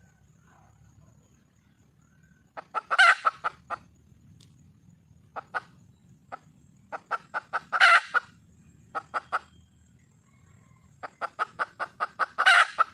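Wild junglefowl hen calling for a mate: three bouts of quick clucks, each building to a louder, drawn-out call, over a faint low hum.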